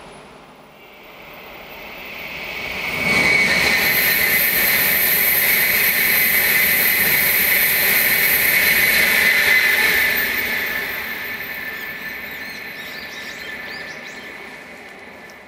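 N700-series Shinkansen bullet train passing on the Tokaido Shinkansen: a rushing sound builds, jumps up about three seconds in and stays loud for about seven seconds with a steady high whine on top, then fades away.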